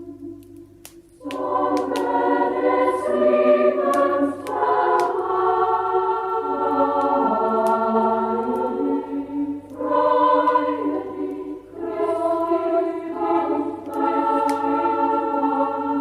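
A choir singing a Christmas song in slow, sustained chords, coming in about a second in after a quiet organ-like note. Faint sharp clicks are scattered through it.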